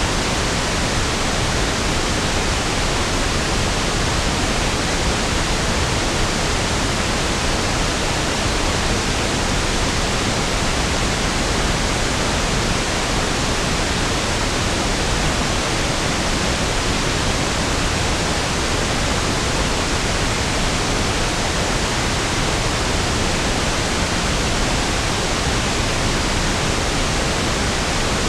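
Steady pink noise (1/f noise), an even, unchanging hiss with equal energy per octave, smoother and deeper than white noise.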